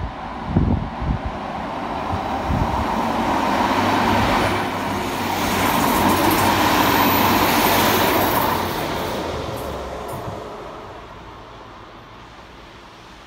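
Two coupled Class 150 Sprinter diesel multiple units passing close by. Engine and wheel-on-rail noise builds to a peak as they go past, then fades away as they recede. A few low thumps near the start.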